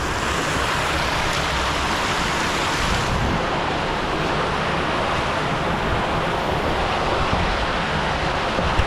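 Creek water rushing in a steady, even wash, with a single knock near the end.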